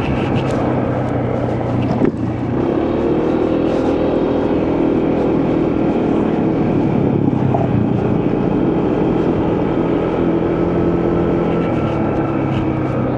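Motorcycle engine running under way with wind and road noise. There is a brief knock about two seconds in, after which the engine pitch climbs.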